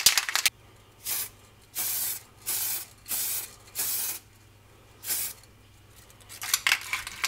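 Aerosol can of undercoat primer: the can rattles as it is shaken at the start, then about six short bursts of spray hiss, each about half a second, with quiet gaps between them. Rattling comes again near the end.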